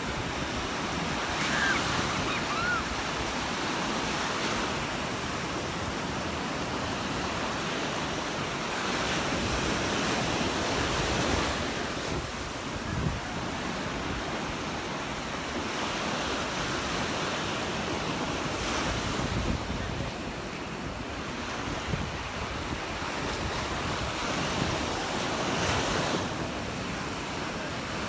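Surf breaking on the beach, the waves swelling and washing in every few seconds, with wind rumbling on the microphone.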